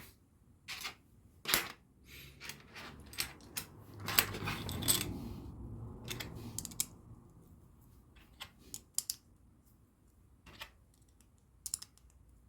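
LEGO bricks being handled and clicked together: scattered sharp plastic clicks, with a longer stretch of rustling and rattling of loose pieces about four to five seconds in.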